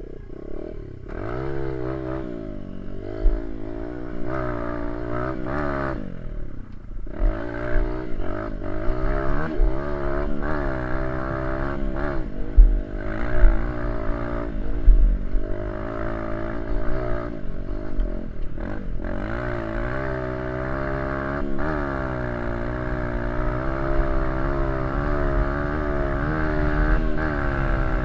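Small dirt bike engine under way, its pitch climbing and dropping again and again as the throttle is opened and closed. A few sharp knocks come around the middle.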